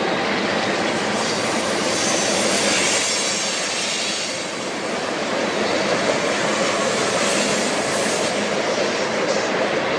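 Union Pacific freight train cars rolling past close by, a steady rumble and clatter of wheels on rail with thin, high wheel squeal coming and going.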